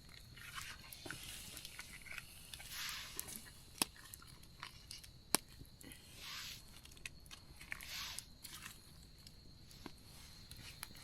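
Faint rustling and crinkling of plastic food packaging being handled, with scattered small clicks and knocks of camp gear; two sharper clicks come near the middle.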